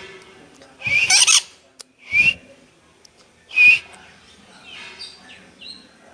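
A bird giving three loud, harsh squawks about a second or so apart, then a few fainter short calls.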